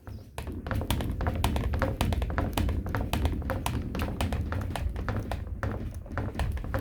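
Rapid, irregular light taps and clicks, several a second, over a low rumble.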